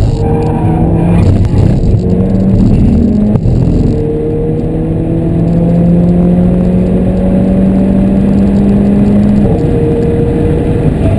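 Mercedes A45 AMG's turbocharged 2.0-litre four-cylinder engine under hard acceleration, heard from inside the cabin. It pulls in short rising stretches with pitch drops between them for the first few seconds, and there is a sharp crack about three and a half seconds in. Then comes one long, slowly rising pull until a gear change near the end.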